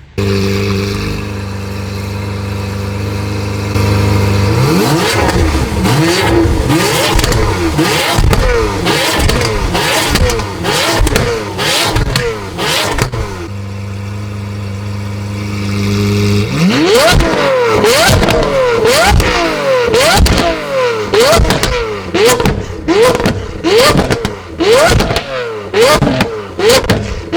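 Lamborghini Aventador's naturally aspirated V12 through a Brilliant aftermarket exhaust, idling steadily, then revved in quick blips that shoot up in pitch and drop back. It settles to idle for a few seconds about halfway through, then is revved again in a fast run of sharp, high-pitched blips.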